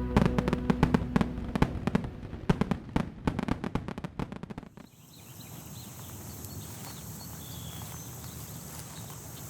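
A rapid, irregular run of sharp cracks and pops over fading music, stopping about five seconds in, then a faint steady outdoor background.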